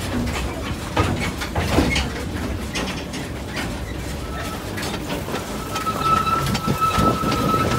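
Narrow-gauge passenger train running, the carriage rumbling and rattling with irregular knocks over the track. A thin, steady high squeal comes in around the middle and holds on.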